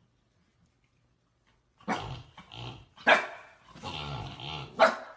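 A dog barking and growling in short bursts, after a near-silent start: a bark about two seconds in, a louder one around three seconds, a stretch of growling, then a sharp bark near the end.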